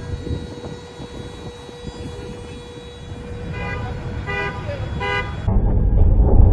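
A car horn honking three short times, about three-quarters of a second apart, over road noise. About five and a half seconds in, this gives way abruptly to a louder, low rumble of a vehicle on the road.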